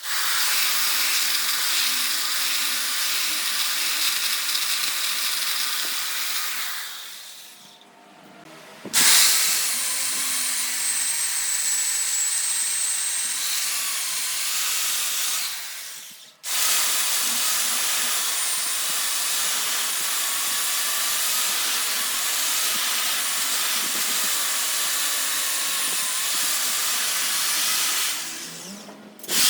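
Wood lathe running with a tool working the spinning wood: a steady, loud hiss with a faint motor whine. It fades out and comes back twice, at edits in the footage.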